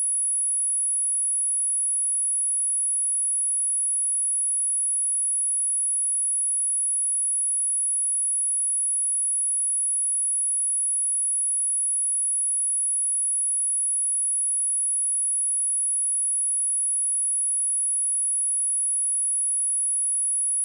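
A steady, high-pitched 10231 Hz sine-wave test tone, one pure tone at constant level, played as a speaker test and cleaning tone.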